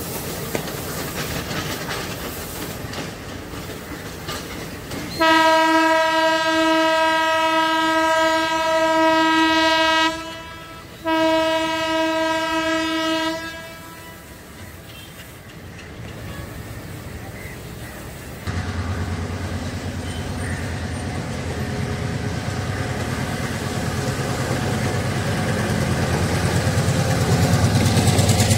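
Sri Lanka Railways diesel train running over the rails with a clickety-clack, then a train horn sounds two blasts, the first about five seconds long and the second about two and a half. Later, a deep diesel locomotive rumble grows steadily louder as a locomotive-hauled passenger train approaches.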